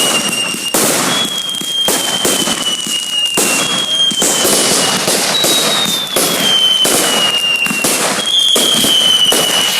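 Dense, continuous banging and crackling of many fireworks going off. A high whistle sounds every second or two, each one sliding slightly down in pitch.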